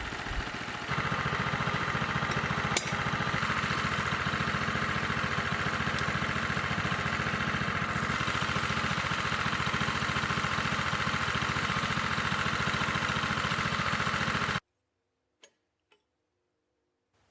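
Sawmill engine running steadily at an even speed while milling wet green spruce into posts. It cuts off abruptly near the end, followed by a couple of faint clicks.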